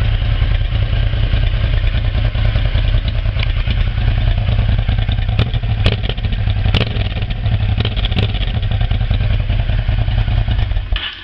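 Honda NTV650 V-twin engine running steadily through a loud exhaust, with a few sharp clicks in the middle; the engine cuts off just before the end.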